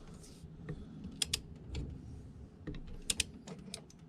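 Ratchet of a socket wrench clicking while spark plugs are run in and tightened: sharp clicks, several in quick pairs, at uneven intervals.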